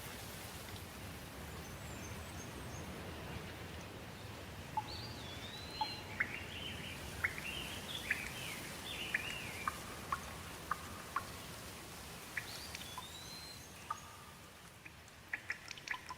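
Steady rain hiss with birds calling over it: a rising-and-falling whistle a few times and a quick run of short sharp chirps in the middle. Near the end the rain quietens and a series of sharp close ticks takes over.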